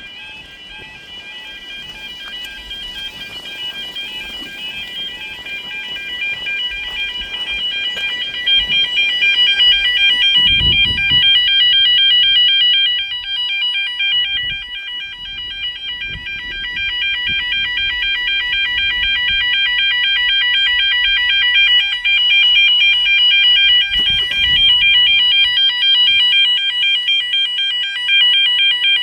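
Level crossing warning alarm sounding continuously as a warbling "yodel" tone, growing louder over the first ten seconds or so. A short low rumble comes about ten seconds in.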